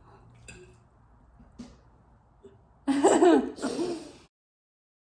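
A few faint clicks, then a woman laughing loudly for about a second and a half; the sound cuts off abruptly.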